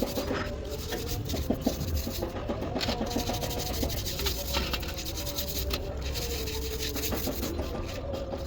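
Scraping and rubbing, with scattered light clicks and knocks throughout.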